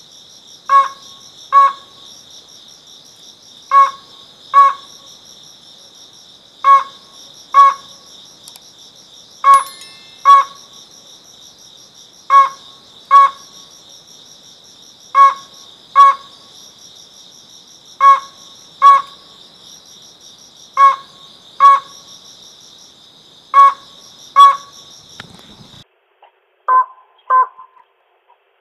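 Slaty-legged crake calling: pairs of short, sharp notes, repeated about every three seconds. Underneath runs a steady high chorus of crickets, which cuts off suddenly near the end.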